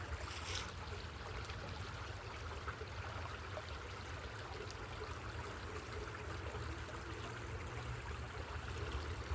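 Steady, even outdoor rushing noise with a low rumble underneath and no distinct events, much like a stream running.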